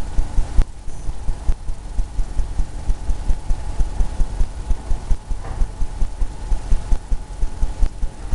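Paintbrush dabbing against a stretched canvas: a quick, uneven run of low thumps, several a second.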